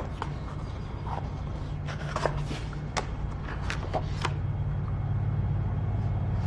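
Pages of a large, heavy paper notebook being handled and turned, giving a few short taps and rustles about a second apart, over a steady low hum.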